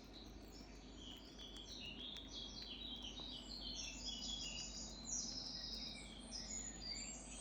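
Small birds chirping and twittering: many short, high notes overlapping, getting busier about four seconds in.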